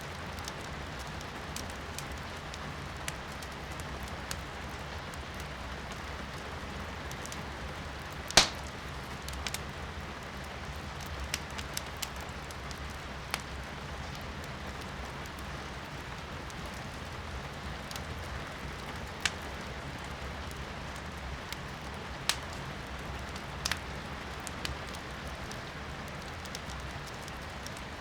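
Firewood burning in a fireplace, crackling and popping now and then, with one sharp pop about eight seconds in, over a steady hiss of rain heard from inside a room.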